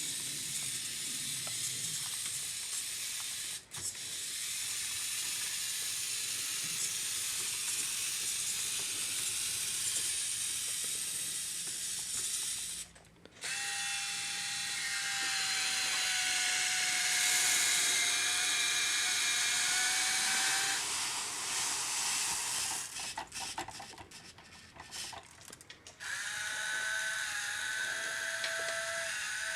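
Small electric motor and gears of a Siku Control radio-controlled Mercedes-Benz model truck whirring with a high hiss. It stops briefly twice, then runs with a steady whine, stutters on and off for a few seconds, and picks up again with a steady whine.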